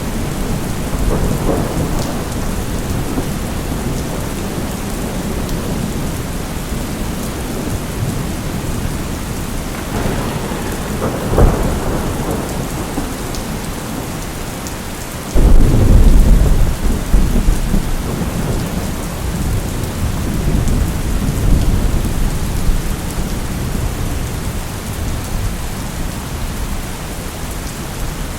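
Steady heavy rain with thunder rolling through. A sharp crack comes about eleven seconds in, then a sudden loud, deep rumble breaks out at about fifteen seconds and slowly dies away under the rain.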